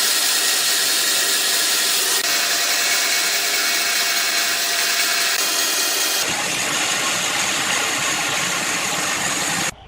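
Electric power tool running steadily while working wood, with a constant whine; its sound changes about six seconds in and it cuts off suddenly just before the end.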